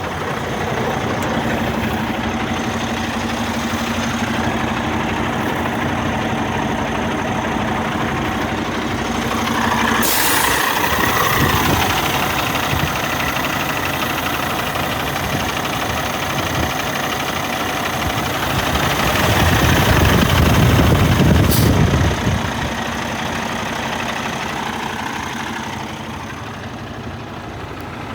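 Cummins X15 diesel engine of a truck tractor idling steadily. A sudden hiss comes in about ten seconds in, and a louder, deeper stretch runs from about twenty seconds in before dropping off sharply.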